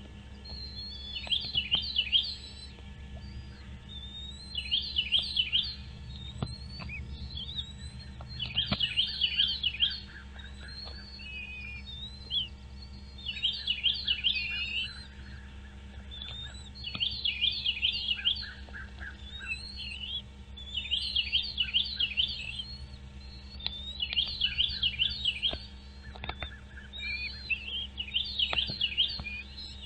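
A songbird singing the same short, rapid trilled phrase over and over, about once every four seconds, with single high chirps in between, over a steady low hum.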